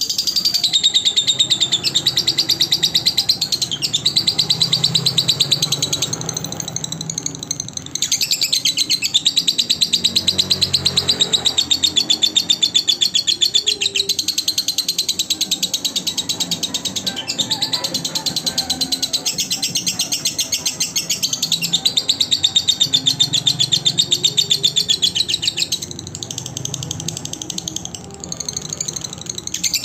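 Lovebird singing a long, fast, unbroken chattering trill of high, rapidly repeated chirps. It eases briefly a quarter of the way in and again near the end.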